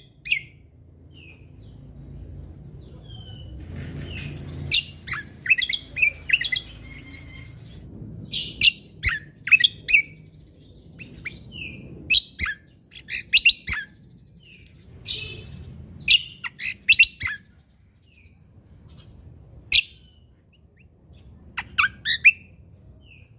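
Cucak kombo (kecial kombok) songbird singing vigorously: clusters of sharp, quick chirps and short whistled phrases broken by brief pauses, over a faint low rumble.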